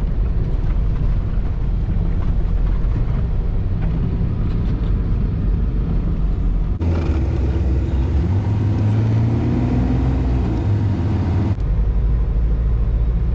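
Semi truck's diesel engine running with a steady low rumble. For a few seconds in the middle the sound changes abruptly and the engine's pitch rises a little as it picks up revs.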